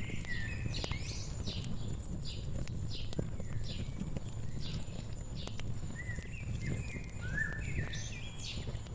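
Wood fire crackling, with scattered sharp pops over a low steady rumble, while a songbird sings quick runs of chirps near the start and again from about six seconds in.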